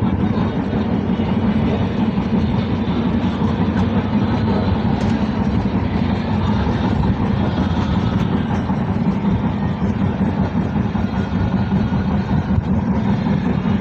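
Passenger train running along the track, a loud, steady low rumble of wheels and carriage.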